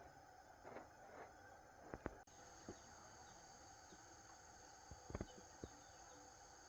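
Quiet outdoor ambience: a faint, steady high-pitched insect drone, with a few soft knocks about two and five seconds in.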